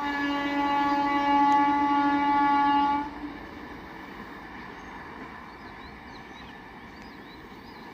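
Indian Railways WAP-4 electric locomotive's horn sounding one long steady blast of about three seconds that cuts off sharply, followed by the quieter running noise of the train.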